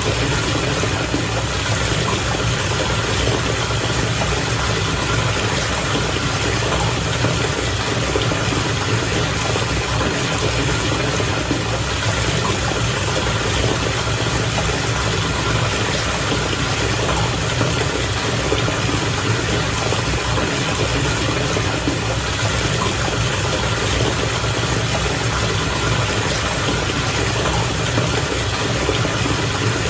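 Bath water bubbling steadily, with an even low hum underneath.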